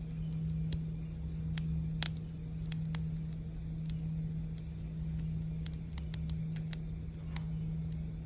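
Campfire crackling, with irregular sharp pops and snaps, over a steady low singing-bowl hum.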